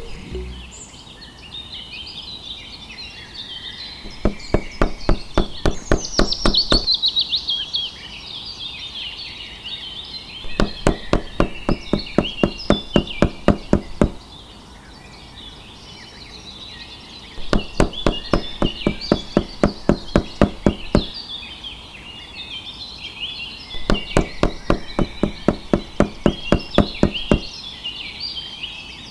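Rapid, evenly spaced knocking, about four knocks a second, comes in four runs of about three seconds each. Birds chirp steadily behind it.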